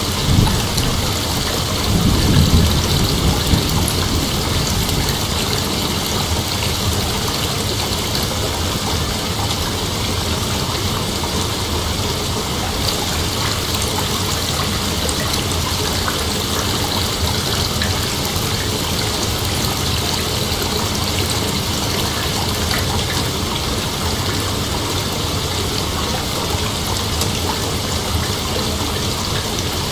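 A dense chorus of night insects: a steady, even hiss sitting high in pitch, with a brief low rumble about two seconds in.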